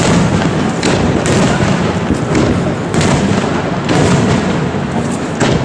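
Aerial fireworks shells bursting in a continuous barrage: a constant rumble and crackle with sharp bangs standing out every second or so.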